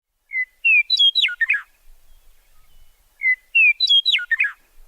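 A songbird singing the same short whistled phrase twice, about three seconds apart; each phrase climbs through a few clear notes and ends in quick falling sweeps.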